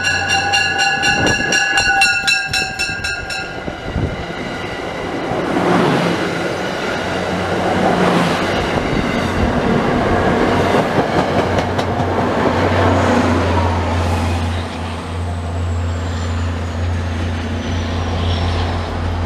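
MBTA commuter rail train sounding its multi-tone air horn, which cuts off about three seconds in, then passing close by: bilevel coaches rumbling and clattering over the rails. In the second half the steady low drone of the diesel locomotive takes over, with a thin high whine that falls slowly in pitch near the end.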